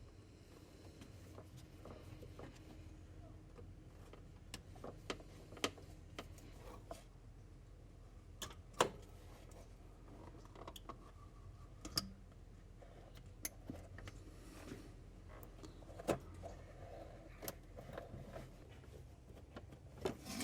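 Scattered light clicks and knocks of tools and parts being handled while disconnecting engine components, over a faint low hum.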